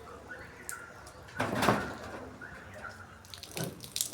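Birds calling, with one loud harsh call about a second and a half in, and a short knock near the end.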